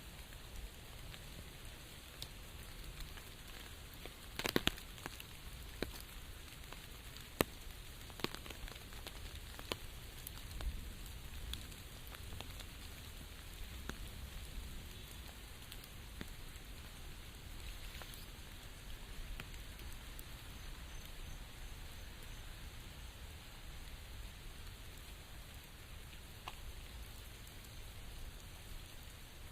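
Steady rain falling, with individual drops ticking sharply here and there; a few louder drops land about four and seven seconds in.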